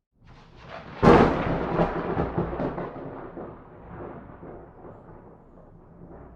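A thunderclap: a rumble swells, then a sharp loud crack about a second in, followed by long rolling thunder that slowly fades away.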